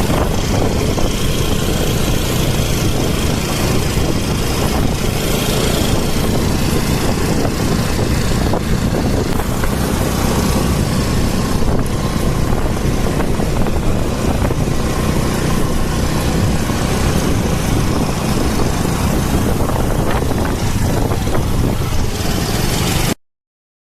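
Steady vehicle running noise mixed with a heavy rush of wind; it cuts off abruptly about a second before the end.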